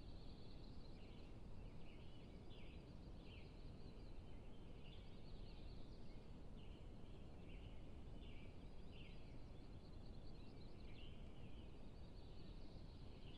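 Faint bird calls, short high notes repeating several times a second without a break, over a steady low rumble.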